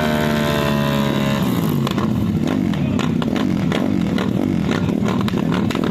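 Drag-racing motorcycle engine held at high revs with its note sliding slightly down. About a second and a half in it breaks into an uneven, wavering note with repeated sharp cracks and pops.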